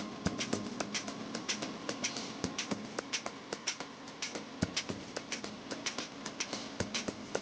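Rapid, irregular sharp clicks and taps, several a second, over a faint steady hum.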